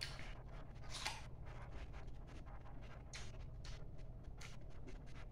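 Crunchy bites and chewing of raw chayote, in irregular crisp crunches with louder ones about a second in and a little past three seconds, over a low steady hum.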